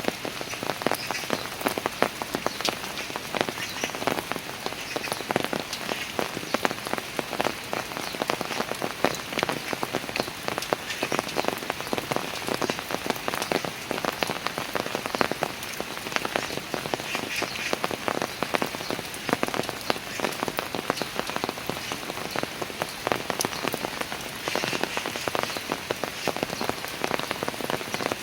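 Steady rain falling on stone stairs, with a dense patter of individual drops hitting the steps.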